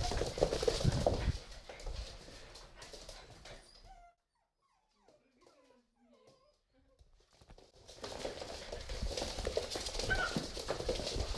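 Pit bull puppies playing, a busy scuffle of paws and small knocks on the floor; about four seconds in it drops almost to silence with a few faint squeaks, then the scuffling starts again about eight seconds in.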